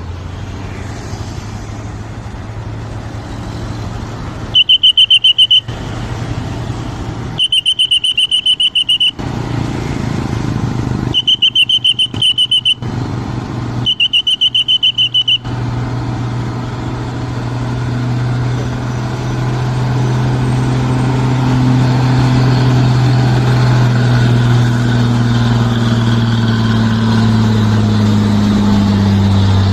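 Four long, trilling whistle blasts, each about a second and a half, over a heavy vehicle's engine running. After the whistles the engine grows louder and its note slowly climbs as it labours up a steep incline.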